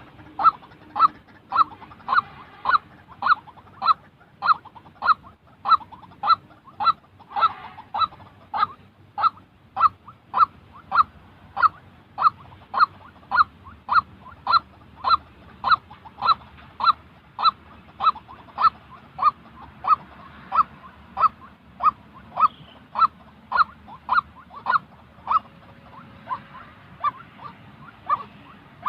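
White-breasted waterhen calling: one short 'kwak' note repeated steadily, about two a second, without a break.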